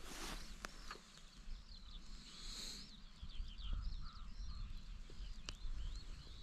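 A songbird sings a continuous run of quick, wavering high notes over a low rumble, with a few faint clicks.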